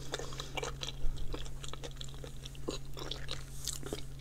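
A person chewing a mouthful of food with the mouth closed, with irregular small clicks and smacks.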